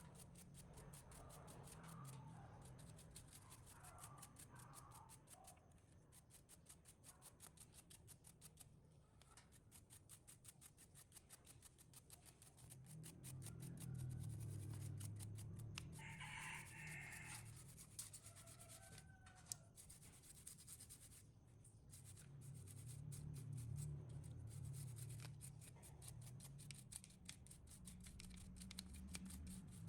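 Faint, quiet scraping or rapid ticking over a low steady hum, with brief animal-like calls of gliding pitch about two-thirds of the way through.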